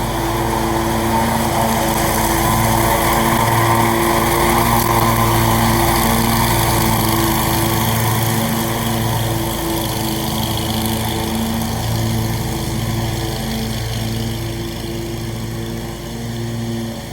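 Scag mower's new Briggs & Stratton engine running steadily, swelling louder over the first few seconds and then easing off somewhat.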